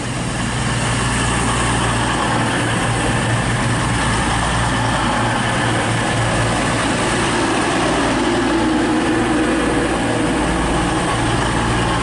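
Class 220 Voyager diesel multiple unit's underfloor diesel engines running steadily as the train arrives at the platform, growing louder over the first second.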